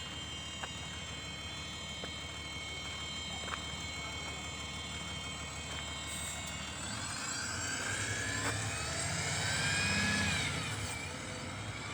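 Small bus running past: a steady engine hum, then a whine that climbs and grows louder about two-thirds of the way in, peaks near the end and then eases off.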